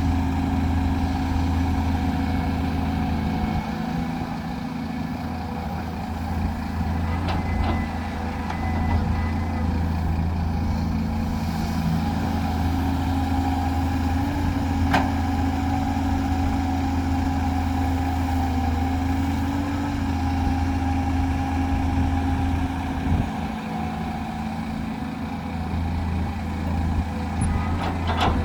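Heavy diesel earthmoving machinery running steadily at a constant engine note, with a few brief sharp knocks.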